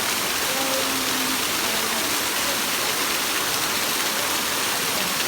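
Hot spring waterfall: a steady, even rush of falling water close by.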